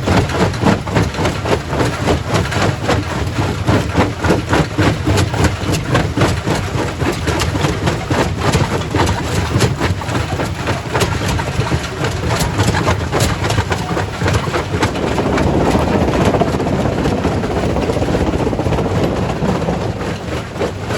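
Quarry primary rock crusher running: a steady machinery rumble under frequent sharp knocks and cracks of stone being broken. From about 15 seconds in, a louder gritty rush of rock joins it for several seconds.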